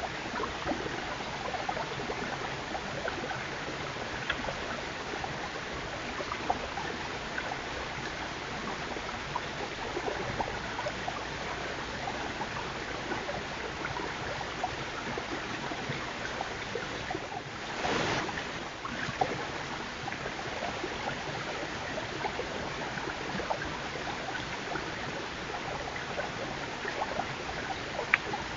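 White-tailed deer chewing apples: many small, crisp crunches over a steady hiss, with one brief louder whoosh about two-thirds of the way through.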